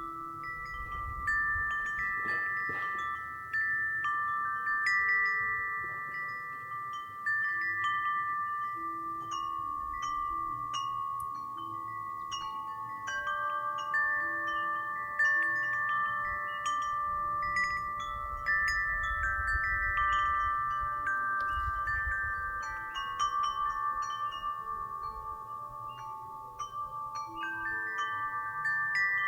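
Wind chime ringing in the wind, its tones struck over and over and overlapping, each note held for several seconds as it fades.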